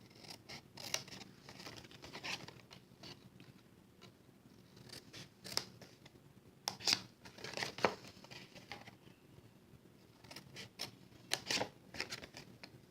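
Scissors snipping card stock: a series of short, sharp cuts in small clusters with brief pauses between, as slits are cut up to the score lines.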